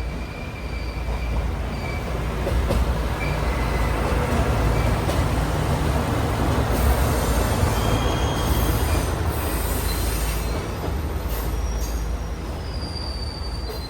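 A train running past, its steel wheels squealing against the rails; the rumble swells through the middle and eases toward the end.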